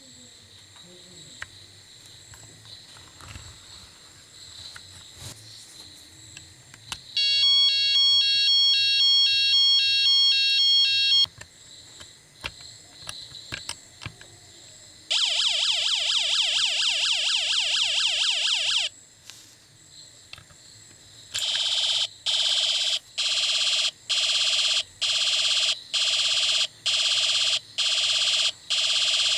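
Electronic siren and alarm sound effects in three patterns. First comes a pulsing stepped-tone alarm for about four seconds, then after a pause a fast warbling siren for about four seconds, then a beeping alarm about once a second to the end. Faint clicks and knocks come between the patterns.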